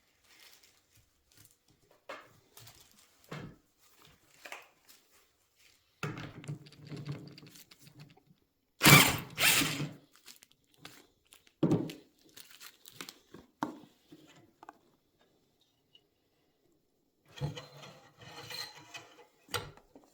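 Tools and motorcycle fork parts being handled during fork disassembly: scattered clicks and knocks, two loud sharp strikes a little under halfway through, and a rattling, clinking stretch near the end.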